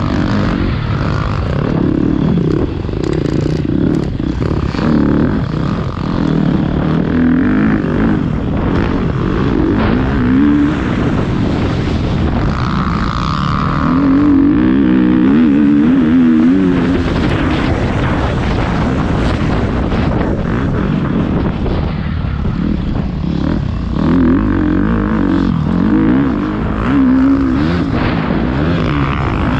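Motocross bike engine running hard, its pitch repeatedly rising and falling as the throttle is opened and closed.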